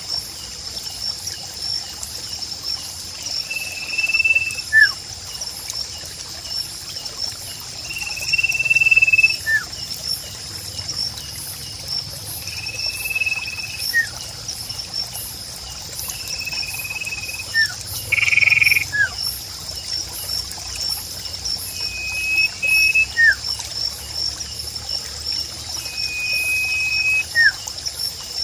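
Nature ambience: a bird repeats a short two-part call every four to five seconds, a held whistle followed by a brief falling note. Under it runs a steady pulsing insect trill and trickling water.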